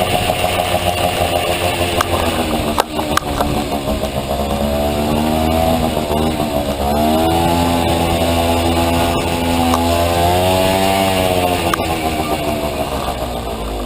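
Honda Motocompo scooter with a two-stroke Honda Dio engine running at speed, the engine note rising and falling as the throttle is worked, with brief dips about halfway and again near the end before the revs fall away. A few sharp clicks sound over it.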